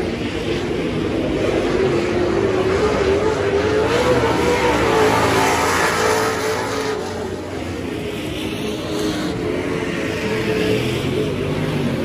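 Super stock dirt-track race car engine running hard on the oval, its pitch rising and falling as the throttle comes on and off through the turns.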